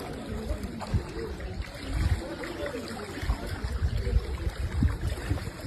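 Floodwater sloshing and splashing as someone wades through it, with irregular low bumps of movement.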